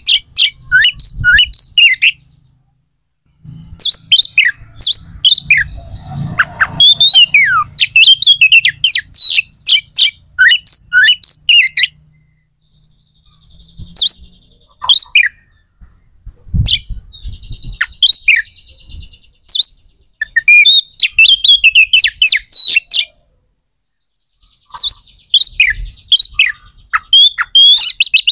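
A bird chirping in rapid bouts of short, high notes, many sliding downward, with pauses of a second or two between bouts.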